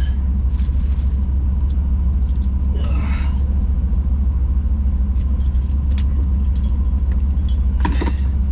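Car cabin noise while driving: a steady low engine and road rumble, with two brief higher sounds about three and eight seconds in.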